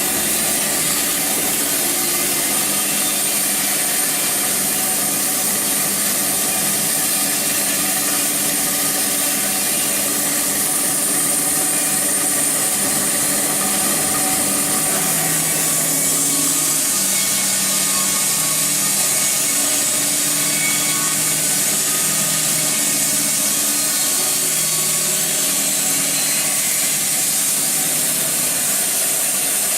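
SAWSPEC 660 narrow bandsaw mill running steadily, its band blade cutting through a log into lumber.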